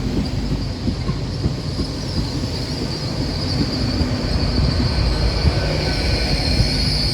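A train running slowly through the station with a low rumble under a steady high-pitched metallic squeal that grows louder near the end.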